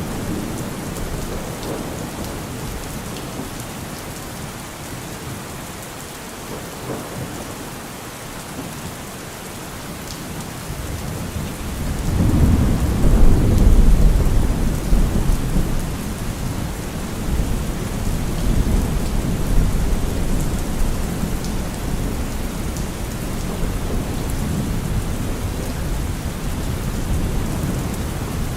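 Steady heavy rain falling, with a long low roll of thunder that swells about twelve seconds in, is loudest for a couple of seconds, then rumbles on more faintly under the rain.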